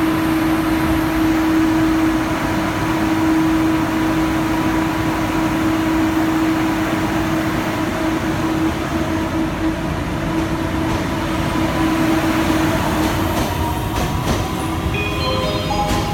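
Guangzhou Metro Line 1 train running, a steady rumble under one constant hum. Near the end a run of short tones steps down in pitch.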